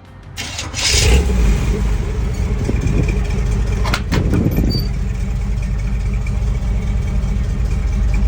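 The 1961 Chevrolet Apache's 454 V8 running. It swells up loud within the first second and then holds steady, with one sharp knock about four seconds in.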